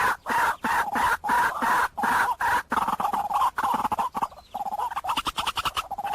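White-breasted waterhen lure call: harsh notes centred near 1 kHz, repeated about two to three times a second, then after a short break quickening into faster, shorter notes near the end.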